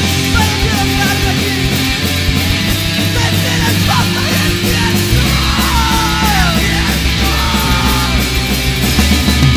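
Loud, distorted heavy rock music from a full band, with driving drums and heavy guitars, and a lead line that slides up and down in pitch near the middle.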